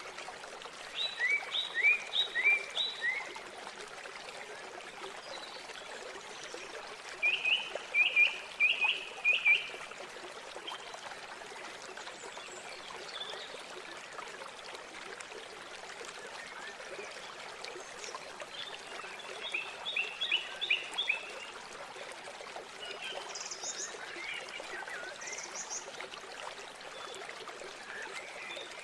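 Steady rush of flowing river water. Over it, birds call in short runs of four to six quick repeated notes three times, with a few higher chirps near the end.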